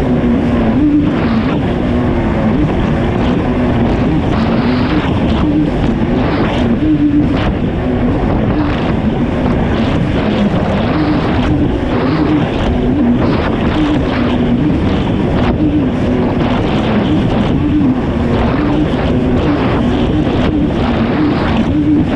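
Kawasaki STX 160 jet ski's four-stroke four-cylinder engine running hard under race throttle, its pitch wavering up and down as the rider works the throttle, over a constant rush of wind and spray with frequent short slaps.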